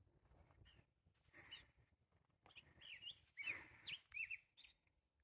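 Songbirds singing: a short phrase of quick high notes at about a second in, then a run of varied chirps and whistles from about two and a half to nearly five seconds.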